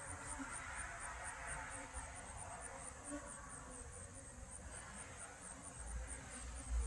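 Honey bees buzzing around an opened hive, a faint, even hum, with a fast, high ticking running under it and a low rumble near the end.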